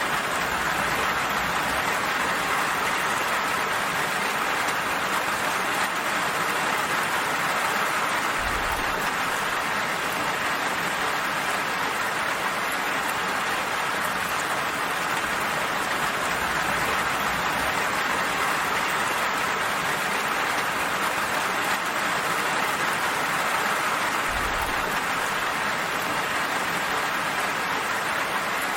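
Steady rain falling in an even, continuous hiss. Twice, a brief low thump sounds under it.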